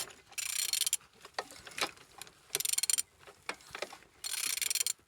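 Ratchet wrench clicking on its return strokes while a Z18XER four-cylinder engine is turned over by hand at the crankshaft, in three short bursts of rapid clicks with a few single ticks between them. The engine turns freely: it is not seized.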